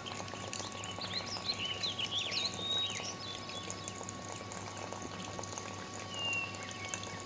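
High, quick chirping animal calls: a busy flurry about a second in lasting some two seconds, then a single call near the end. A faint steady tone and hum run underneath.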